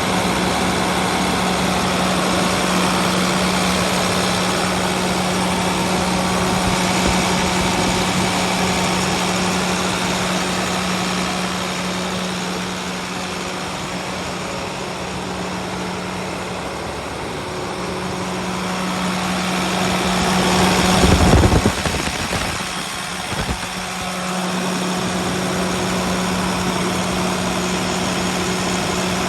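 2009 International school bus engine idling steadily with a low, even hum. About two-thirds of the way through there is a brief louder surge, with a smaller one just after it, before the idle settles back.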